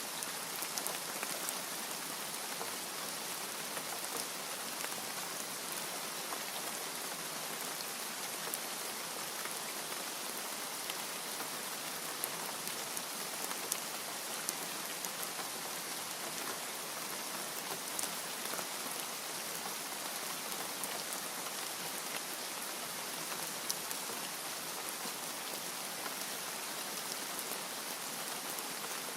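Steady rain falling, a dense even hiss with many small, sharp drop ticks scattered through it.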